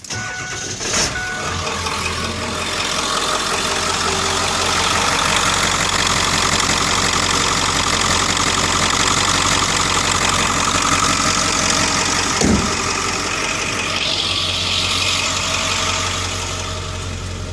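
Ford 7.3 L Powerstroke V8 turbo diesel in a 2002 F350 starting up and settling into a steady idle. There is a single brief thump about twelve seconds in.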